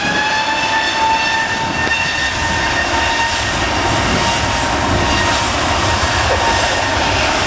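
Airliner engines running with a steady whine over a broad roar; the whine settles at a fixed pitch just as the sound begins, after rising.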